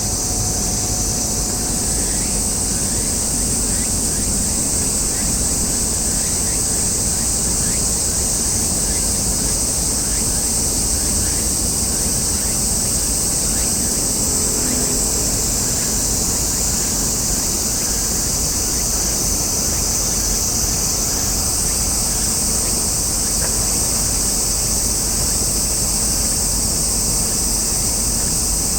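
Steady outdoor background noise: a low rumble with a constant high-pitched hiss over it, unchanging throughout.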